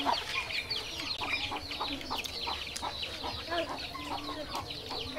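Birds chirping: a dense, continuous run of quick falling chirps, with scattered lower calls underneath.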